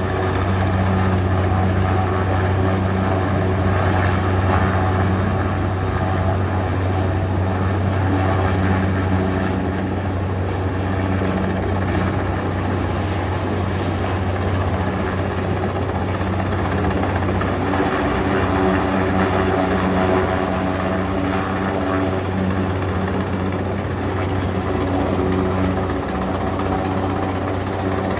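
Helicopter running steadily overhead, a continuous low drone from its rotor and engine that holds level throughout.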